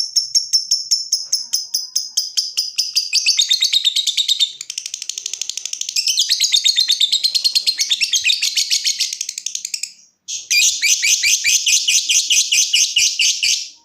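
Lovebird giving its long, rapid chattering trill (ngekek), a fast unbroken run of high shrill chirps at about ten a second. It breaks off for a moment about ten seconds in, resumes, and stops abruptly at the end.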